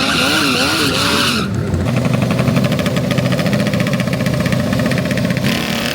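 Small mini bike engines revving with a wavering pitch under a high steady squeal that cuts off about a second and a half in; then a mini bike engine runs close by with a rapid, even firing beat.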